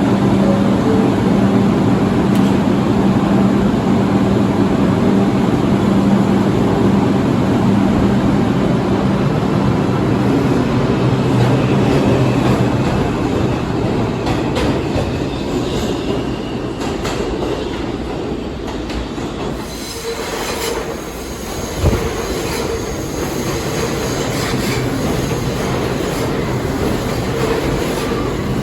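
New York City subway train running on the rails, with a loud rushing rumble and a low hum that fades about halfway through. High-pitched wheel squeal comes in over the second half, and there is a single sharp thump about three-quarters of the way through.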